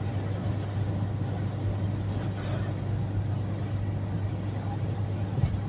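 Steady road and engine noise inside a car cruising at highway speed: a constant low hum with tyre rush, unchanging throughout.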